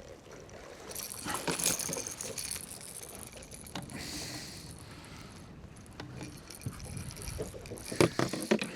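Light rattling and clinking with scattered knocks, busiest about a second or two in and again near the end, as a just-landed catfish and its tackle are handled in a small fishing boat.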